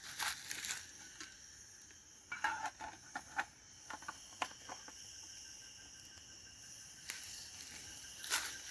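Faint, scattered clicks and crinkles of objects being handled, over a steady high-pitched insect drone.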